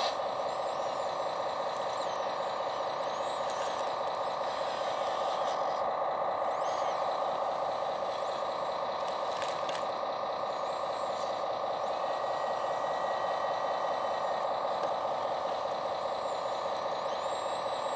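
Small electric motor of an RC scale log loader running with a steady, even whine while it works the logs.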